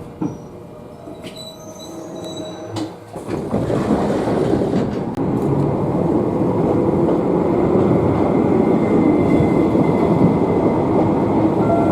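Toyama Chihō Railway electric train running on the rails: the rail noise rises about three seconds in, then holds as a loud, steady rumble.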